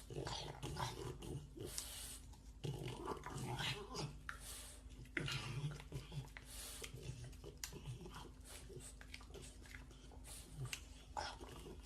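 French bulldog puppies making short, low, irregular vocal sounds, with scattered small clicks and scuffs.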